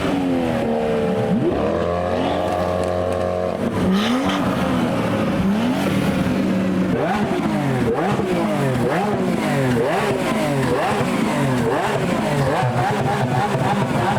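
Car engine revved hard: held at a steady high note for a couple of seconds, then blipped up and down over and over, about twice a second, through the second half.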